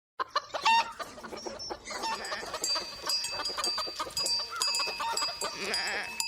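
Chickens clucking, starting abruptly out of silence a moment in.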